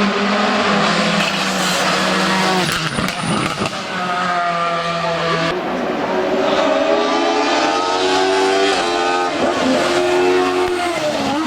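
Hill-climb race car engine at full throttle, its note climbing and then dropping sharply at each upshift, about four gear changes.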